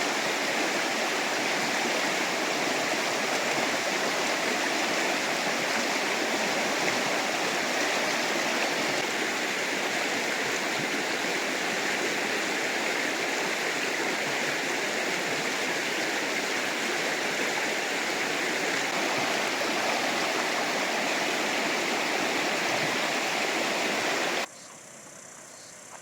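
Fast river water rushing steadily over rapids, a dense, even roar. It cuts off abruptly near the end, leaving a much quieter background.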